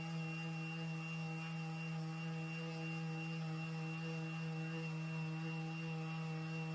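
A steady electric hum with a faint high-pitched whine above it, unchanging throughout.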